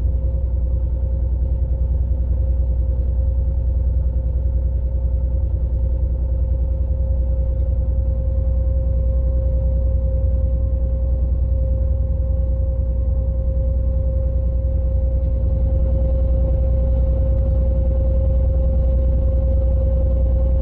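Diesel engine of the river pusher tug RT-643 running steadily: a deep, even rumble with a constant steady whine above it.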